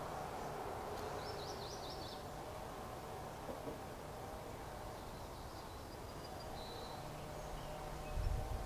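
Outdoor ambience with a steady low rumble, a short high bird trill about a second in and fainter bird chirps later, and a few low bumps near the end.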